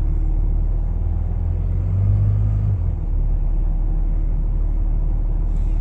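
Steady low rumble of a vehicle's engine and drivetrain heard from inside the cab, swelling briefly about two seconds in.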